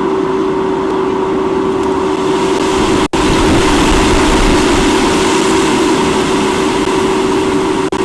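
Strong wind rushing over the nest-cam microphone, getting stronger about three seconds in, over a constant steady hum. The sound cuts out for an instant twice.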